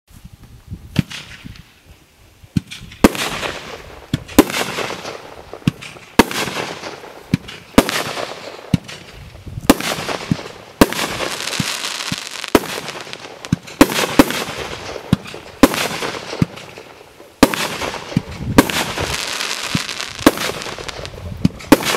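A 50 mm, 36-shot fireworks cake firing: sharp reports start about three seconds in and come about every one and a half seconds, each followed by a trailing hiss, with a few smaller pops between them.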